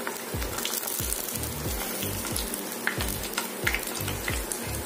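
Hot oil sizzling and crackling around breaded vegetable cutlets shallow-frying in a pan as they are turned over with two spoons. Soft background music with a low, repeating beat runs underneath.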